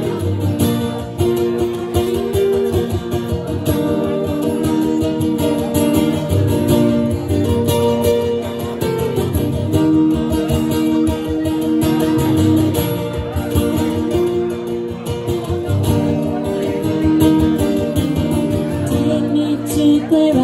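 Instrumental break in a slow Irish folk ballad played live: acoustic guitar strummed at an even pulse under a held melody line.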